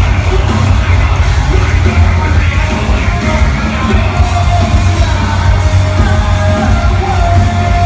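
A metalcore band playing live: heavy, distorted guitars and drums over a deep bass, with yelled vocals. A sustained high note comes in during the second half.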